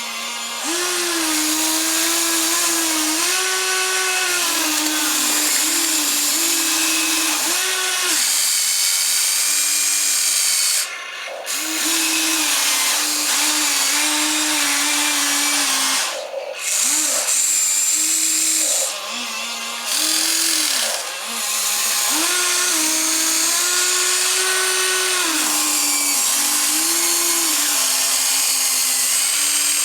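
Small electric motors of a toy excavator whirring, the pitch shifting up and down as different motions start and stop, with a few brief pauses.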